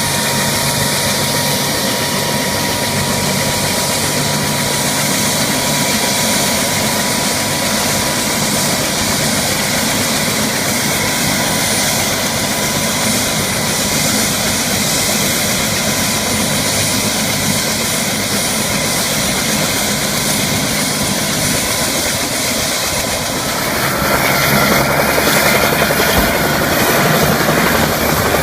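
Helicopter engine and rotor running steadily with a constant drone, growing louder with a higher whine near the end.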